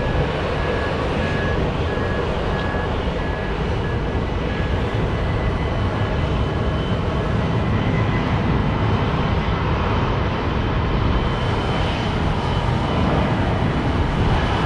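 Jet airliner taking off, its engines at takeoff thrust making a steady rushing noise that grows slightly louder.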